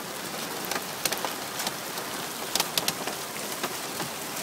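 Hail and rain pelting down: a steady hiss broken by many sharp ticks of hailstones striking.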